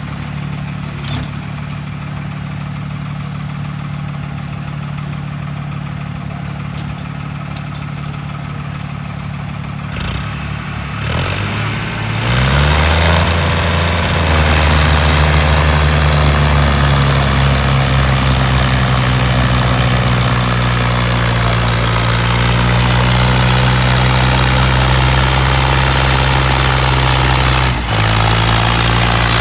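Tractor diesel engine idling, then revved up over about a second and held at high revs, with a brief dip near the end.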